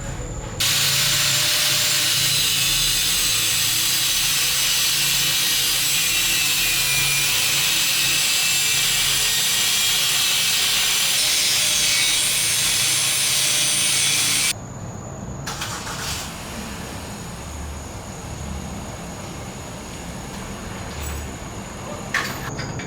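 Power tool cutting through the motorcycle's exhaust header pipes: one long, loud, steady hiss that starts under a second in and cuts off suddenly about two-thirds of the way through. A few light clicks follow.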